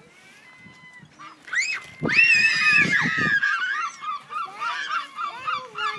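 A flock of gulls calling: quiet at first, then a loud long call about two seconds in, followed by many short, rapid, overlapping calls.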